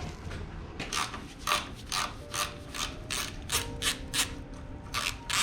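Hand ratchet wrench worked in quick back-and-forth strokes, its pawl clicking about three times a second, loosening the bolts of the front engine mount cap on a 1922 Ford Model T.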